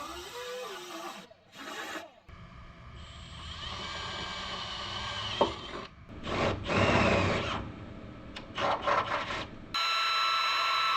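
Short clips of auto-body finishing work: rubbing and rasping strokes of sanding or filing on the panel, with louder scraping passes in the middle. Near the end a small power tool starts and runs steadily with a high whine.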